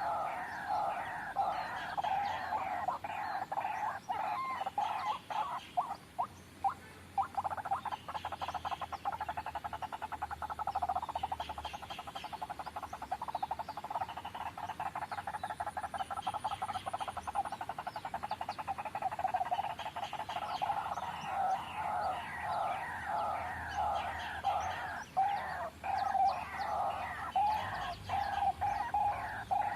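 White-breasted waterhen calling: a continuous run of harsh, rapidly repeated notes. The notes crowd into a faster, denser rattle in the middle and settle back to an evenly spaced beat near the end.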